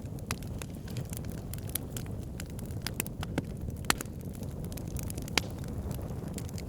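Fire burning in a fireplace: a steady low rush of flames with frequent sharp crackles and pops, the loudest about four and five and a half seconds in.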